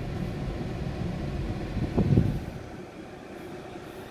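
Freight train's boxcars rolling past a level crossing, a steady rumble with a louder knock about two seconds in, after which the rumble eases.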